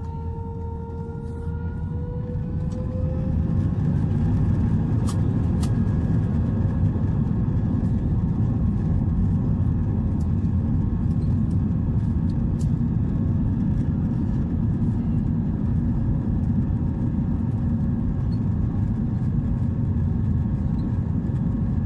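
Airliner's jet engines spooling up for takeoff. A whine rises slightly in pitch over the first few seconds, then a loud, steady rumble builds and holds through the takeoff roll.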